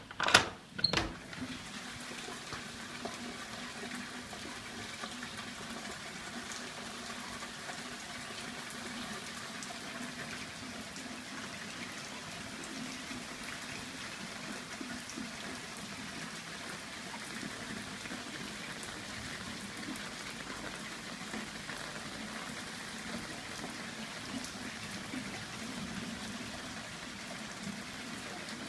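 Steady rain falling and splashing, an even hiss with faint scattered drip ticks. It follows a couple of loud knocks in the first second.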